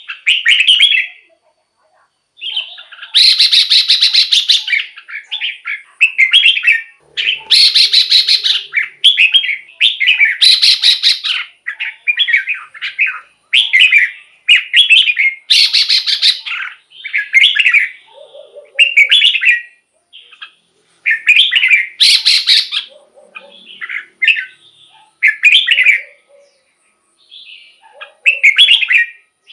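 Red-whiskered bulbul singing: short, bright whistled phrases repeated with brief gaps, mixed with several longer, harsher rasping notes.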